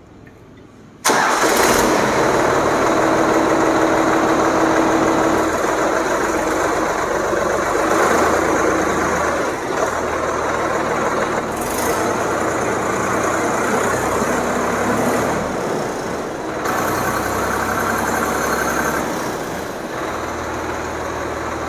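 Solis 5015 E Hybrid tractor's three-cylinder diesel engine starting abruptly about a second in, then idling steadily.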